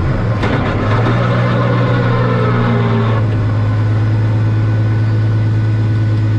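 Car engine running hard, its pitch falling over the first three seconds and then holding steady.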